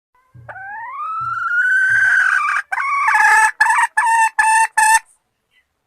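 Junglefowl calling: one long note that rises and levels off, then breaks into a run of about five short, choppy notes that stop about five seconds in.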